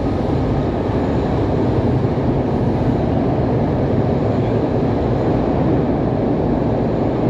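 Subway train in motion: a steady, loud running noise of wheels on rail, swelling slightly in the first second or two and then holding even.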